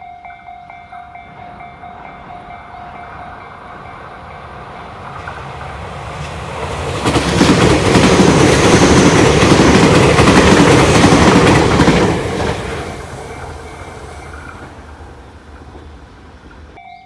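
Tobu 60000 series electric commuter train passing close by on the near track: it grows louder from about four seconds in, is loud for about five seconds as the cars go by, then fades away.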